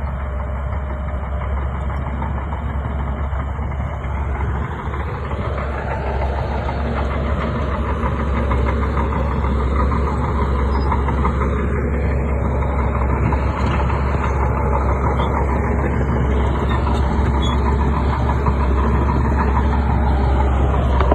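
Crawler bulldozer's diesel engine running steadily, growing louder about six seconds in and staying louder.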